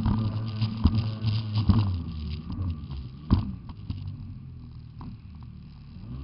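Jet ski engine running with a steady low hum that fades away after about two seconds, among scattered knocks, the loudest a little past the middle.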